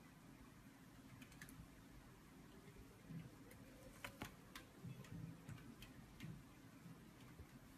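Near silence broken by a few faint, scattered clicks and taps.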